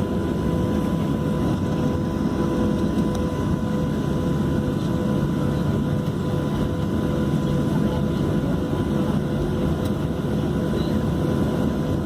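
Steady running of a Southwest Airlines Boeing 737's jet engines and airflow, a deep even rumble with a faint steady hum, neither building nor fading.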